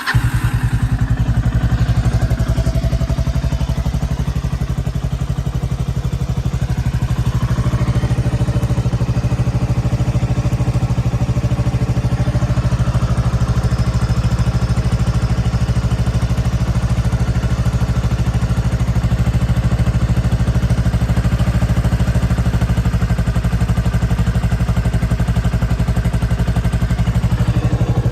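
Kawasaki Estrella BJ250A's air-cooled single-cylinder four-stroke engine idling steadily, just after being started.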